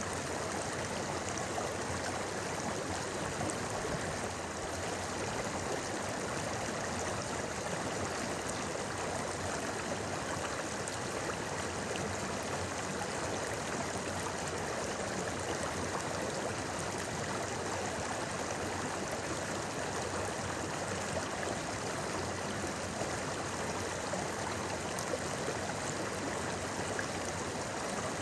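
Shallow river flowing over stones: a steady, even babbling.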